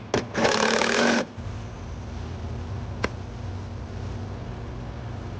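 Two sharp clicks and a loud hiss lasting about a second, then a steady low mechanical hum with a single click about three seconds in.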